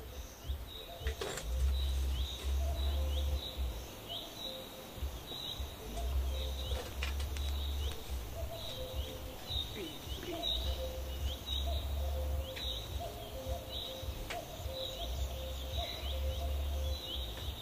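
A bird calling over and over with short, high, falling chirps, a little more than one a second, over steady outdoor background noise broken by bursts of low rumble. A few sharp clinks as a metal spoon shifts hot charcoal on an aluminium pot lid.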